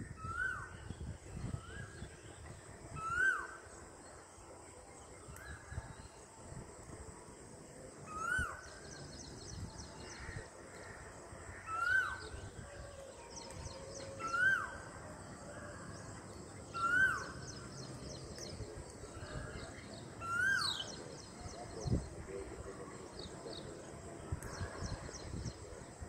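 Birds calling outdoors: a short rising-then-falling call repeats every two to three seconds, with faint high twittering in between and a single knock late on.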